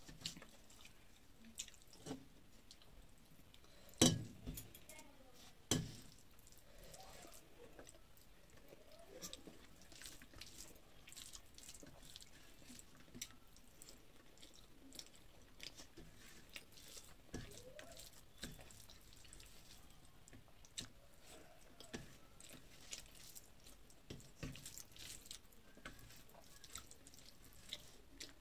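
Quiet chewing and wet mouth sounds of someone eating rice and curries by hand, with scattered light clicks and taps of fingers on a steel plate. Two sharper knocks stand out about four and six seconds in.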